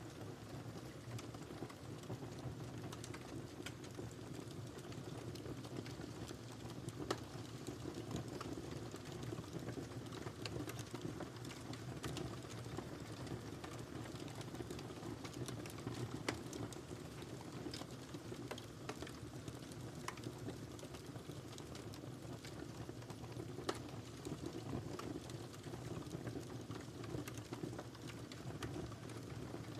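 Wood fire crackling, with many small irregular pops and snaps over a low steady rumble of burning, and a few louder pops.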